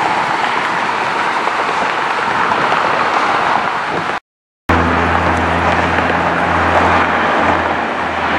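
Steady engine roar. It breaks off in a brief dropout about four seconds in, and a steadier low droning hum takes over after it.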